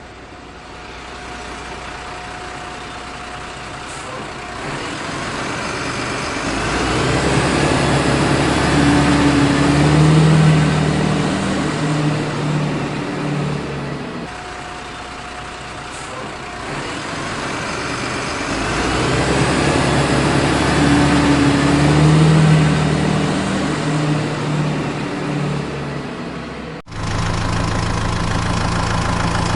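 Truck engine running and revving up to a peak, then easing off, the same sequence heard twice over. Near the end it cuts abruptly to a steady idle.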